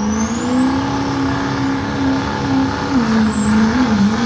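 Diesel truck engine running at high revs under load, with a turbocharger whistle. The engine note climbs in the first second, holds steady, then wavers up and down near the end, and the whistle rises and holds with it.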